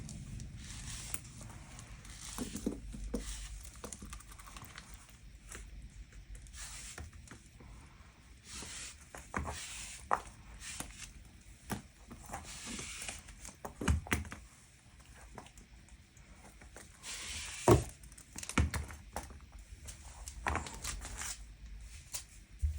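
Handling of a leather bag: irregular rustling swishes with scattered light clicks and taps, and a couple of louder thunks.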